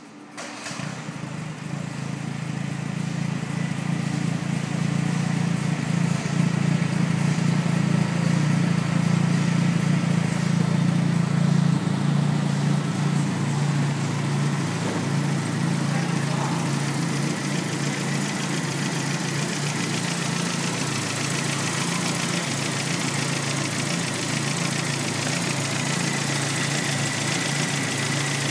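1948 MG TC's four-cylinder engine catching from a very cold start about half a second in and then idling steadily, a little louder for the first dozen seconds before it settles.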